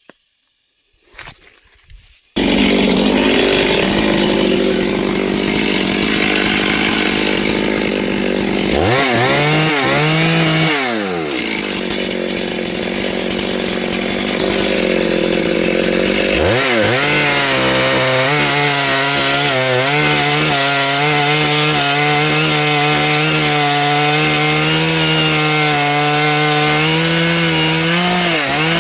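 Chainsaw comes on suddenly a little over two seconds in and runs loud. It revs up and back down around ten seconds in, then revs up again at about sixteen seconds and holds high, steady revs, dropping off at the very end.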